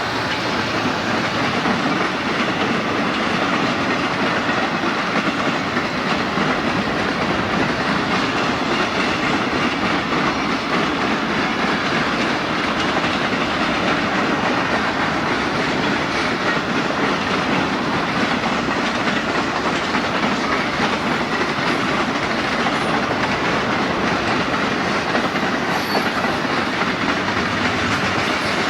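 Freight train cars rolling past, a loud, steady rumble of steel wheels on rail with rapid clacking over the rail joints.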